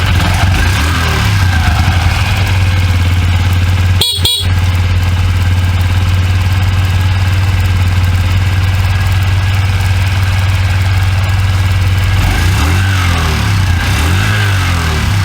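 Suzuki GS50's 49cc single-cylinder four-stroke engine idling steadily just after starting, with a short break in the sound about four seconds in. Near the end the throttle is blipped several times, the pitch rising and falling.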